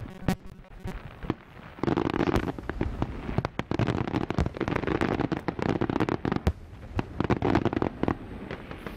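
Aerial fireworks bursting: a few scattered bangs, then from about two seconds in a dense, continuous crackle of rapid cracks and booms.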